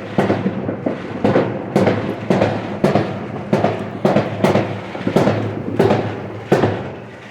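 A fireworks battery firing a rapid series of shots, about two bangs a second, each echoing off and fading, about a dozen in all.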